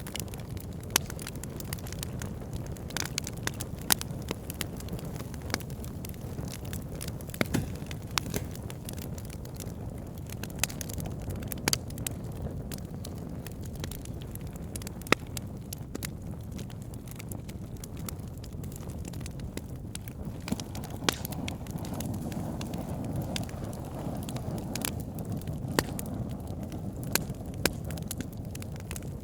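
Wood fire burning logs: a steady low rumble of flames with frequent sharp crackles and a few louder pops at irregular moments.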